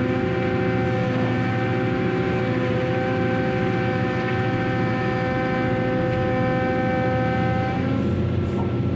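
Heavy cargo-handling machinery running steadily, a low rumble with a held whine over it that shifts in pitch near the end.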